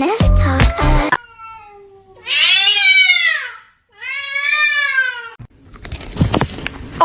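Kitten meowing twice, two long drawn-out cries that rise and then fall in pitch, after a second of music.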